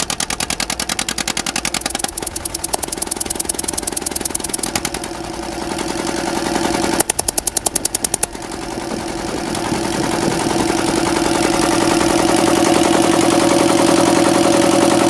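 Vintage stationary diesel engine running with a rapid, even firing beat. About seven seconds in there is a short run of sharper, louder beats, then the running turns into a smoother, steady hum that grows louder.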